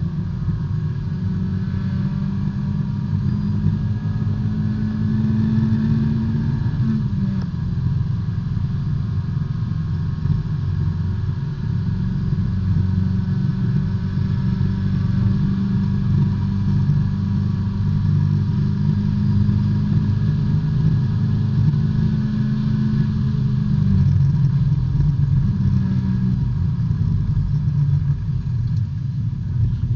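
Onboard sound of a B-Spec race car's small four-cylinder engine held at high revs under racing load. The pitch holds or creeps up, drops sharply about seven seconds in and again near 24 seconds, then climbs again.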